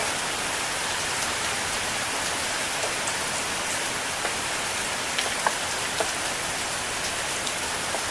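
Very heavy rain falling steadily, with a few faint drips or splashes standing out now and then.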